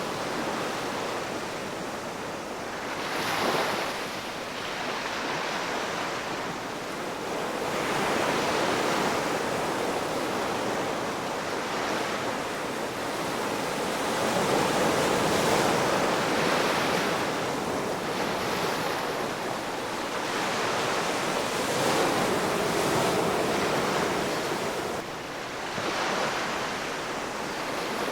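Ocean waves breaking and washing onto the shore, a continuous surf that swells and ebbs every few seconds.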